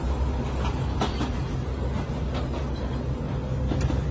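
Narrow-gauge passenger coach running on the track, heard from inside: a steady low rumble with irregular clicks and rattles from the wheels and coach body.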